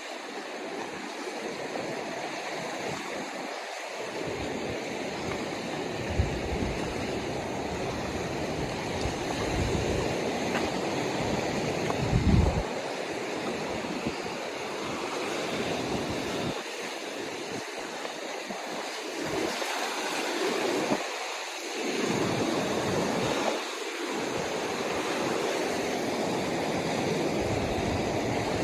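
Ocean surf washing steadily against the shore, with gusts of wind buffeting the microphone now and then.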